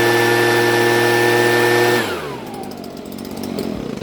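Two-stroke gas leaf blower running at full throttle with a steady high whine, then throttled back about two seconds in, its pitch falling away as it slows.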